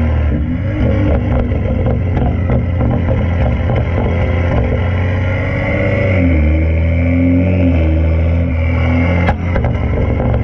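BMW 335i's N55 turbocharged straight-six running through a fully straight-piped exhaust (catless downpipe, resonator and muffler deleted), loud, its note shifting in pitch about six seconds in. A single sharp crack sounds a little after nine seconds.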